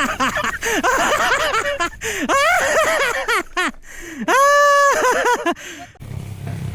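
High-pitched human voices crying out and laughing in short rising and falling yelps, with one long held shriek about four seconds in. A low engine hum comes in near the end.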